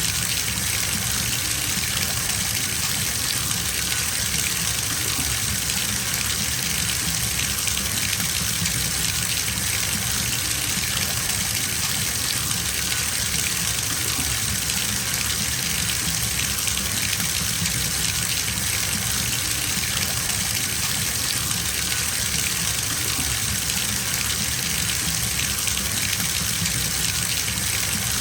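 Water running steadily from a bathtub tap into a filling tub, a continuous even gushing with no change.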